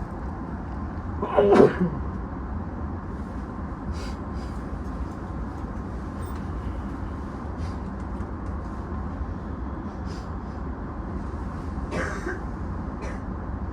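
A person sneezes loudly about a second and a half in, with a fainter cough or throat-clear near the end, over the steady low hum inside an E233 commuter train carriage.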